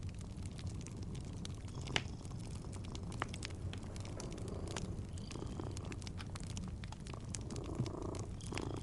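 Wood fire crackling with scattered pops, the sharpest about two seconds in, over a steady low cat purr.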